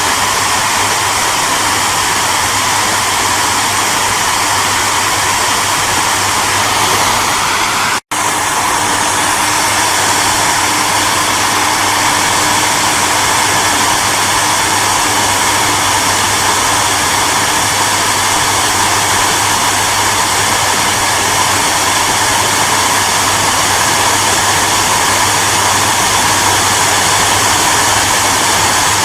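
Hair dryer running steadily, an even rushing blow over a low motor hum. It cuts out for an instant about eight seconds in and comes straight back.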